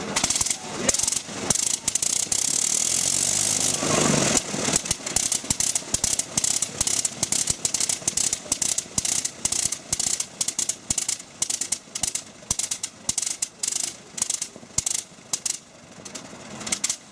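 Old radial aircraft engine firing: a few pops, then a dense run of firing for a couple of seconds, then separate sharp pops a few a second at uneven spacing as it runs slowly and unevenly.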